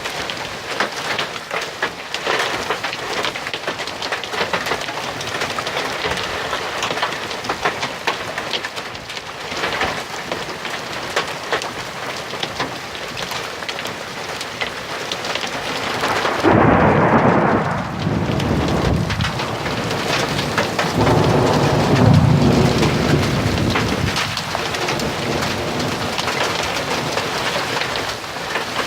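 Heavy rain falling steadily, with fine pattering of drops throughout. Thunder rumbles loudly about halfway through and again a few seconds later, the second rumble lower and longer.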